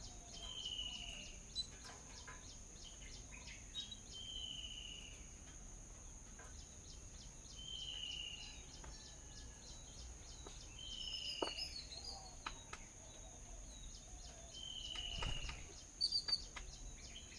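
A bird repeating the same short, slightly falling call about every three and a half seconds, six times, over a steady high insect drone with rapid ticking. A few sharper knocks near the end.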